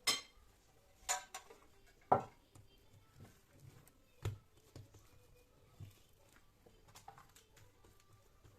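A series of light knocks and clicks from objects being handled: the strongest three about a second apart at the start, then fainter, scattered ones.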